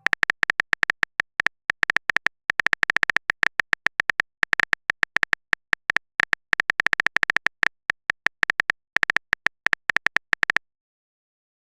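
Typing sound effect: quick, irregular clicks of a phone keyboard, several a second. They stop abruptly about ten and a half seconds in.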